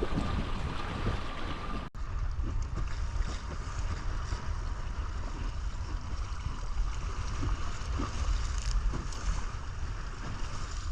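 Wind buffeting the microphone over water around a boat, a steady rumbling noise. A faint steady tone stops at an abrupt cut about two seconds in.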